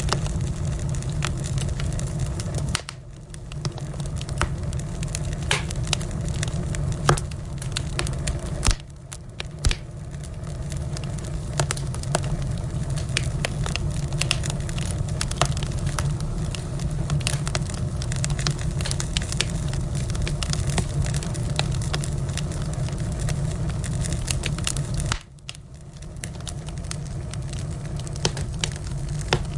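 Wood fire in a fireplace crackling, with frequent sharp pops and snaps over a steady low rumble of the flames. The sound drops abruptly for a moment three times.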